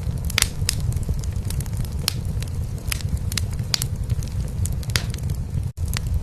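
Wood fire crackling in a fireplace, with irregular sharp pops over a steady low rumble that fits a cat's purring. The sound cuts out for an instant near the end.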